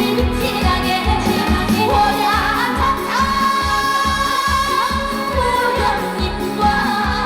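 Live trot song: a female singer over an amplified band track with a steady kick-drum beat about twice a second, and a long held note in the middle.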